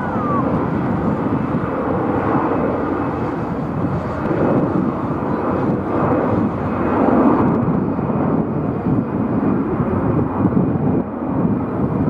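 Jet airliner's engines rumbling steadily as it passes, swelling slightly about seven seconds in.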